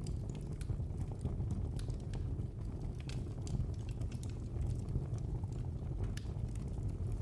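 Wood fire burning in a fireplace, with a steady low rumble of flame and irregular sharp crackles and pops.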